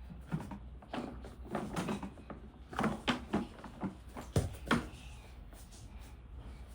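Irregular light knocks and clicks of toy cars being handled, picked up and set down, some close together and some spaced a second or so apart.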